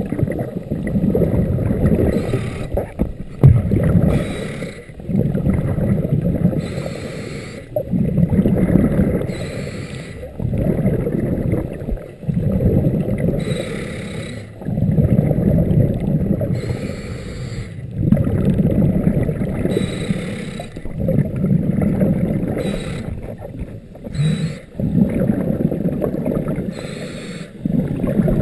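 Scuba diver breathing through a regulator underwater: a short hiss on each inhale, then a longer bubbling rumble of exhaled air, repeating about every three seconds.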